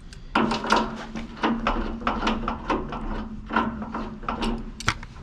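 A tight, thread-sealed valve joint being worked with a hand tool: quick scraping, creaking metal strokes, about three or four a second, starting about half a second in, over a steady hum that stops about four seconds in.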